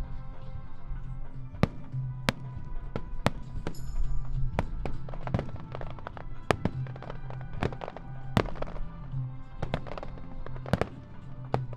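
Aerial fireworks going off in quick succession, sharp bangs and crackles about every half second to a second, over music with a steady, pulsing low beat.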